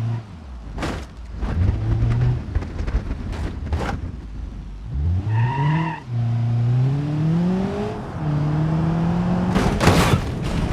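Cartoon car engine sound effects: an engine revving up in several rising sweeps of pitch, with sharp clicks and knocks in between and a louder noisy burst near the end.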